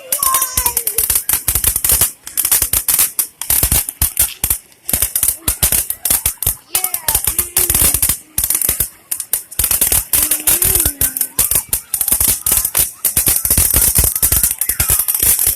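Firecrackers going off in rapid, continuous strings of sharp pops, with a few short breaks, and voices calling out now and then.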